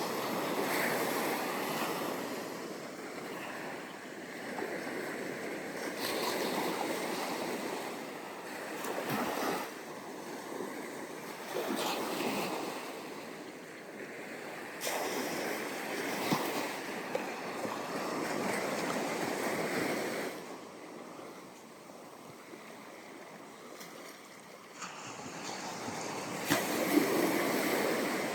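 Ocean surf breaking and washing up a sandy beach, coming in repeated surges a few seconds apart with a quieter lull about two-thirds of the way through.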